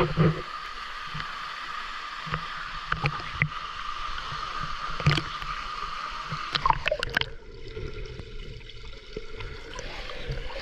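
Waterfall water rushing steadily, with scattered clicks and knocks. About seven seconds in, the rush turns lower and quieter.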